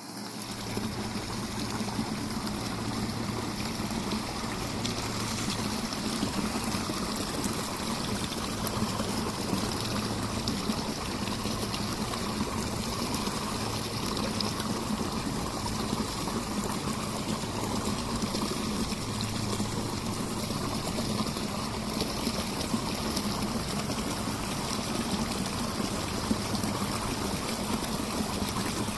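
Mountain stream flowing steadily, a continuous rush and trickle of water, with occasional small pops from a campfire.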